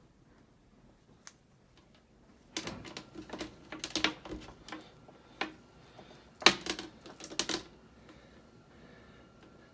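Irregular clicks and knocks of hard plastic being handled, as the flood-alarm water sensor is fitted to a plastic bucket. The clatter starts about two and a half seconds in and stops a couple of seconds before the end, with one sharp knock standing out.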